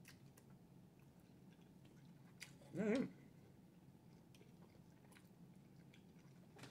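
Faint chewing of a mouthful of noodles, with small wet mouth clicks. A short hummed "mm-hmm" about three seconds in is the loudest sound.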